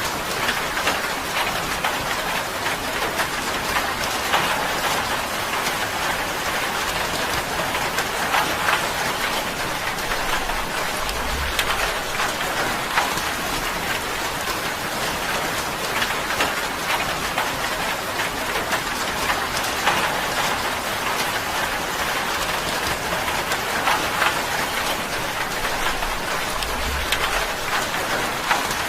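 Steady rain drumming on a tin roof, a dense patter of drops striking sheet metal. A faint low rumble comes twice, once near the middle and once near the end.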